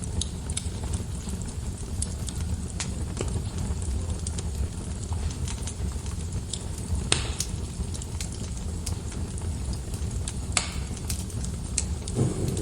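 Wood fire burning in a fireplace: a steady low rumble with scattered small crackles, and two louder pops about seven and ten and a half seconds in.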